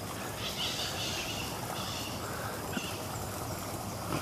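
Birds calling in three short bursts of harsh, high chirping, with two light knocks near the end.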